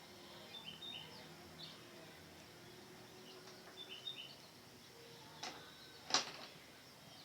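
Outdoor background with small birds chirping in short high pairs, a few times over. Two sharp knocks come near the end, about half a second apart, the second the loudest.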